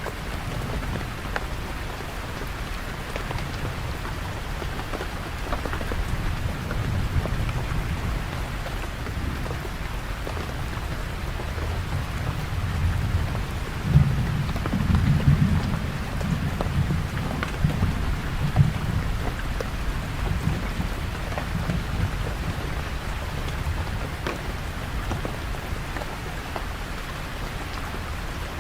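Steady rain falling. A low rumble swells up suddenly about halfway through and dies away over the next few seconds.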